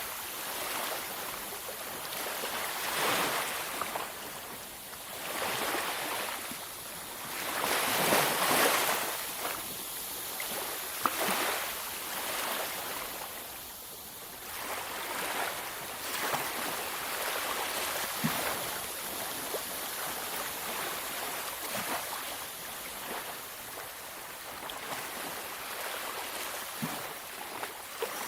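Sea waves washing onto a beach: a continuous surf hiss that swells and ebbs every few seconds, with one larger wave breaking about eight seconds in.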